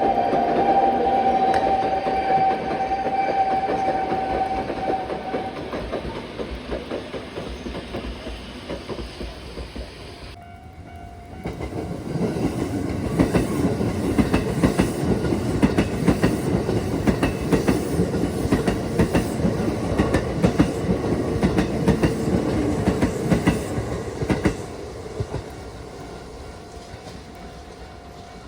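Train running past: a held tone fades out over the first few seconds with the rumble behind it, then after a break comes a loud stretch of rapid wheel clatter over rail joints. The clatter lasts about twelve seconds before fading away.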